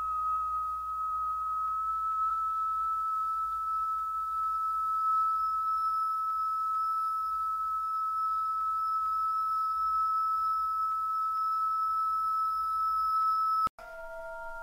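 A single steady pure tone from the background music, held unchanged for about thirteen seconds, then cut off suddenly near the end and replaced by a lower chord of several held tones, like a struck singing bowl.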